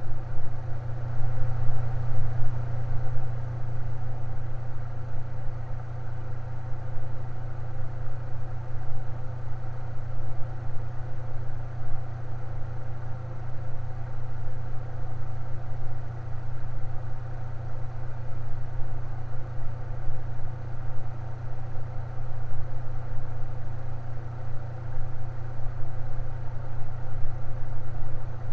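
Electric fan running steadily: an even, low motor hum with fainter steady tones above it, unchanging throughout.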